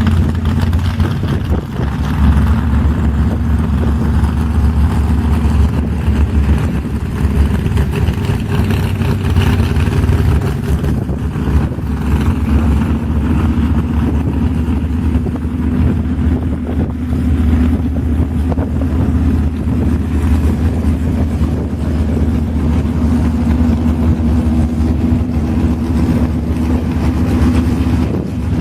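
International Harvester 966 tractor engine running hard at full throttle under load during a tractor pull, a loud steady drone that holds without letting up.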